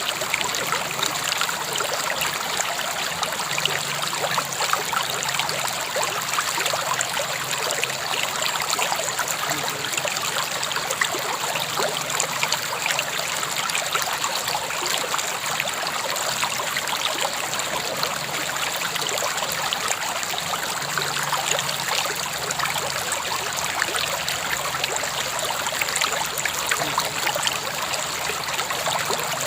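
River water flowing and babbling over stones in a steady rush with fine splashing.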